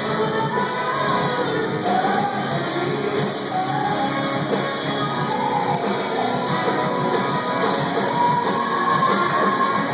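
A rock band playing live, with a singer's voice over guitar, in a large hall.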